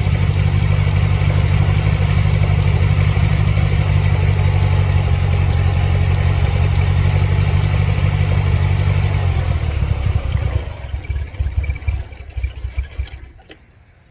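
Supercharged 2.3-litre four-cylinder engine of a 1999 Mercedes-Benz C230 Kompressor running steadily, then faltering into uneven pulses about ten seconds in and stopping near the end. The engine has serious running problems, with its check engine light flashing.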